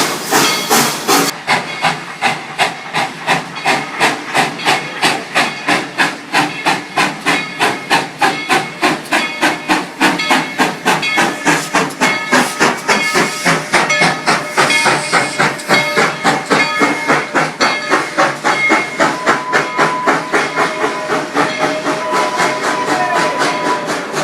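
Steam locomotive working, its exhaust chuffing in a steady rapid beat of about four a second, with steam hiss under it.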